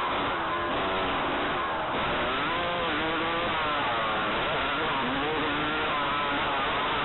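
Motocross dirt bike engine revving up and down repeatedly on the track, its pitch climbing and dropping every second or two as the throttle opens and shuts.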